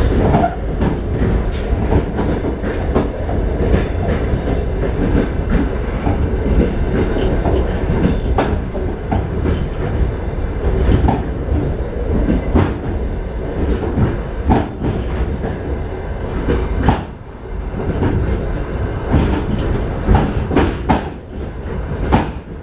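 Moving train heard from inside a carriage: a steady rumble of wheels on the track with irregular clacks and knocks, dipping briefly about seventeen seconds in.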